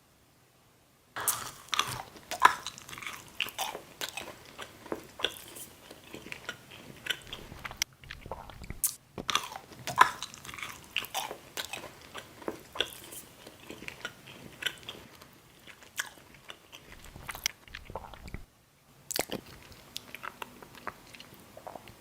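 Close-miked ASMR eating: a person biting and chewing, with many sharp crunches and wet chewing noises, pausing briefly twice.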